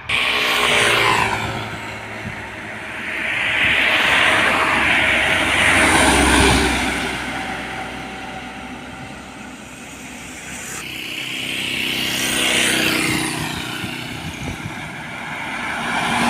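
Several heavy road vehicles drive past one after another, their engine and tyre noise swelling and fading with each pass.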